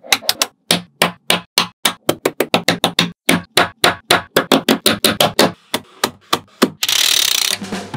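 Small magnetic balls clicking sharply together in a rapid, uneven run of snaps, several a second. Near the end this gives way to a short burst of hiss.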